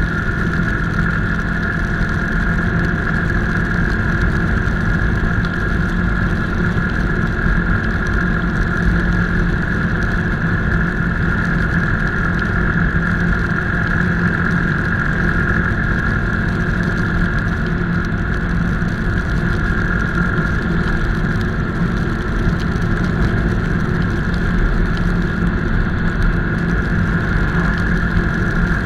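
Motorcycle engine running at a steady pace while riding, a constant drone that does not rise or fall.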